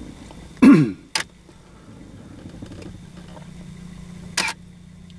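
A car's engine idles with a steady low hum, heard from inside the cabin. Less than a second in, a person makes a short, loud voice sound that falls in pitch, like a grunt or throat clearing. A sharp click follows right after, and there is another brief sharp noise near the end.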